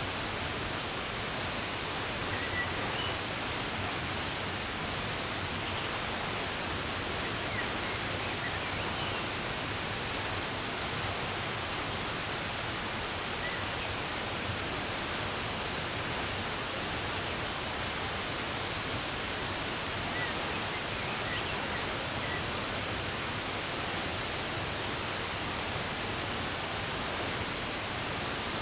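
Running water rushing steadily, with a few faint, brief bird chirps scattered through it.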